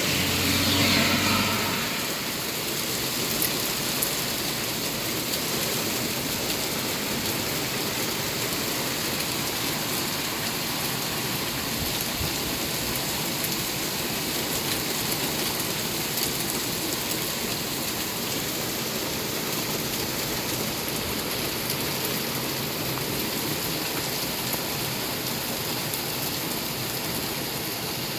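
Steady rain falling, a continuous hiss with scattered drop ticks. For the first couple of seconds a louder low hum sits under it.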